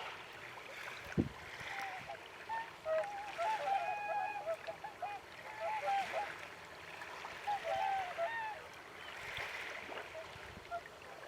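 Whooper swans calling with short honks, several overlapping in bursts, over a steady wash of water. A single knock about a second in.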